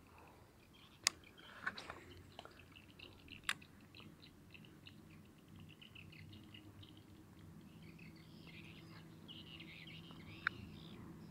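Faint birds chirping, with a few sharp clicks in the first few seconds and one more near the end, over a low steady hum.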